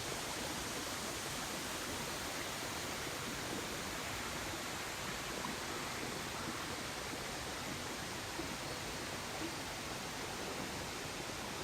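Steady rushing of a mountain stream, an even wash of water noise with no break.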